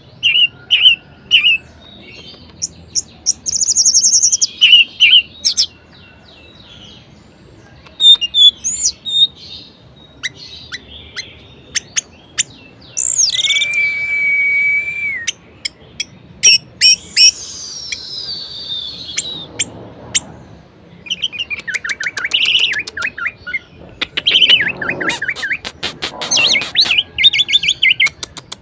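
Orange-headed thrush singing a varied song: short chirps and whistled phrases, a long steady whistle about halfway, a falling glide after it, and fast rattling trills near the end.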